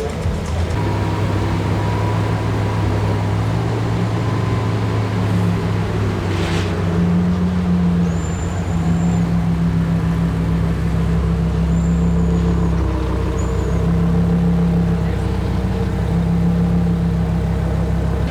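A Lamborghini engine running at low revs, a steady deep note that shifts slightly in pitch as the car moves off slowly. There are three brief high chirps in the second half.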